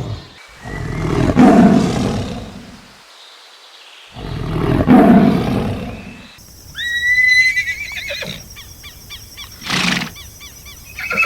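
A tiger roars twice, each roar long and rough. Then, after a cut, a horse whinnies: a high, quavering neigh, followed by snorting pulses and another call near the end.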